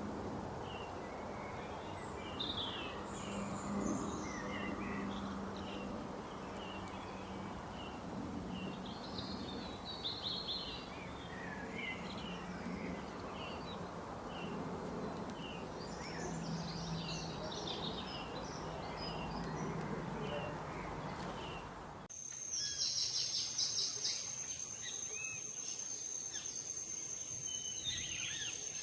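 Many small birds chirping over a steady background hiss. About two-thirds of the way through the sound changes abruptly to a steady, high-pitched insect trill with a few more bird calls.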